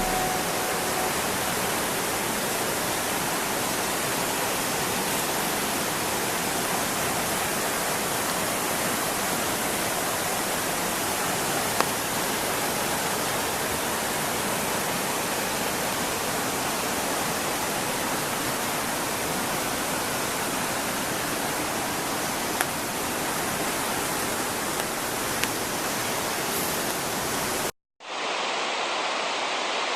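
Steady rush of fast-flowing water in a mountain stream, a dense even hiss with no distinct splashes. Near the end it cuts out for a moment, then resumes slightly duller.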